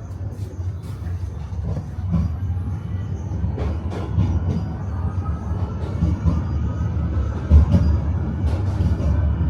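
Electric tram car running on its rails: a steady low rumble of the wheels with scattered sharp clicks and knocks. From about halfway through, a faint whine slowly rises in pitch.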